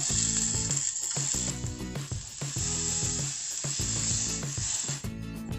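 Hot tomato sauce in a stainless saucepan sizzling as a cup of water is poured in and stirred. It starts suddenly, is loudest in the first second or so, and eases off near the end. Background music plays underneath.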